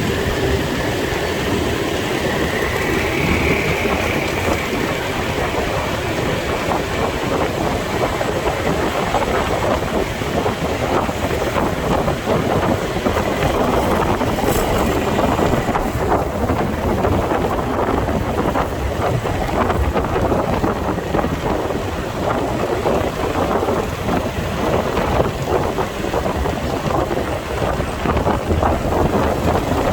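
Riding noise from a moving motorcycle: wind rushing over the microphone, mixed with the bike's engine and city street traffic, steady throughout.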